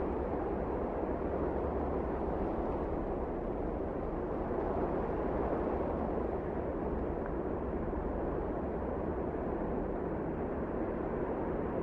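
Blizzard wind blowing steadily: a low, even rushing noise without breaks or gusts.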